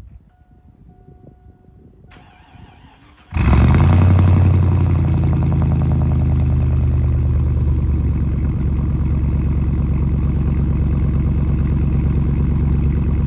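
2002 Chevrolet Silverado pickup engine started: a second or so of cranking, then it catches and runs loud at a fast idle that eases down over the next couple of seconds and settles into a steady idle.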